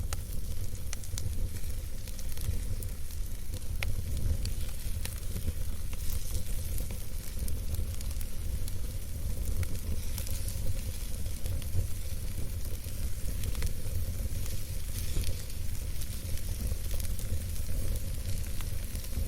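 Wood campfire burning: a steady low rumble and hiss with many small crackles and pops scattered throughout.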